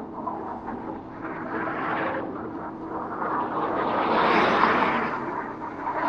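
A vehicle passes on the road, its noise swelling to a peak about four seconds in and then fading, over a steady low hum.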